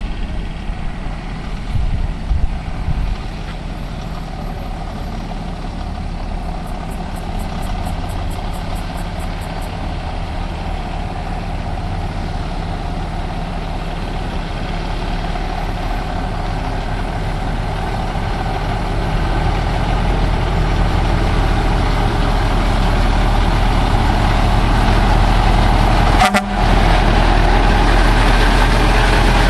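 Volvo Globetrotter truck's diesel engine running as the bobtail truck pulls away, a steady low drone that grows gradually louder, with a short break about 26 seconds in.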